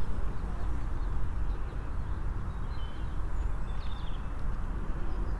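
Outdoor ambience of a steady, fluttering low rumble, with a few faint, short bird chirps a little past the middle.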